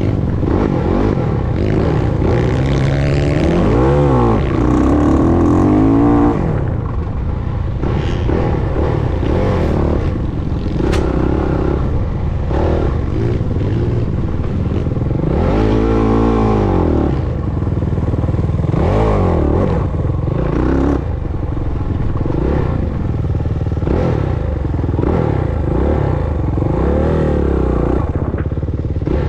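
Motocross dirt bike engine being ridden hard, its pitch repeatedly rising and falling as it revs up and backs off around the track's corners and straights, with rattling and clatter throughout.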